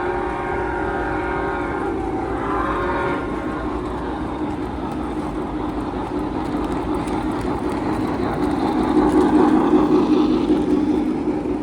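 A model train's horn sound effect blowing twice, a long blast and then a shorter one, over the steady hum and hubbub of a busy exhibition hall.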